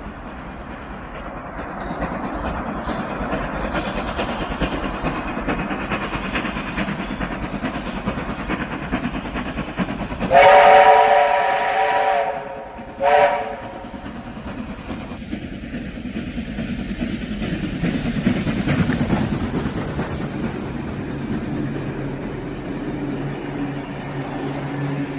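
Steam locomotive and its train running, a steady rail noise. About ten seconds in the locomotive's steam whistle sounds one long blast of several tones, then gives a short second toot.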